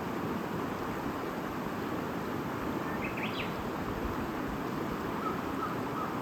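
A stream babbling steadily, with a short burst of bird chirps about halfway through and a run of short repeated bird notes near the end.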